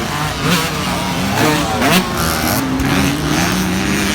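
Several motocross dirt bike engines running together, their pitches rising and falling as the riders rev and shift.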